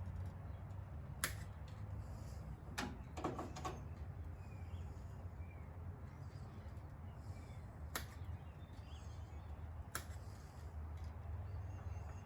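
A few sharp clicks and light knocks of hand work, with a quick cluster about three seconds in and single ones later, over a steady low hum. Faint bird chirps sound in the background.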